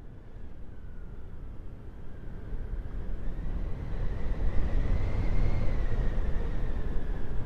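Howling wind: a low, rumbling rush of gusts swelling steadily louder, with a thin whistle that slowly rises and then falls in pitch.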